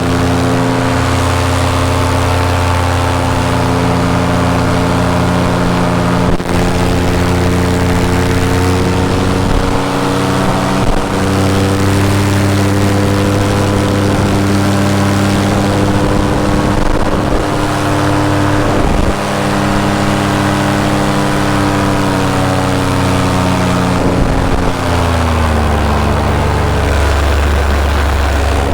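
Paramotor engine and propeller running steadily in flight, with wind noise; the engine's pitch drops about three-quarters of the way through.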